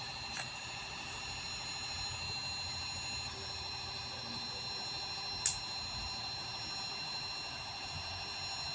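Steady low rumble of an idling vehicle engine, with steady high-pitched tones over it and one sharp click about five and a half seconds in.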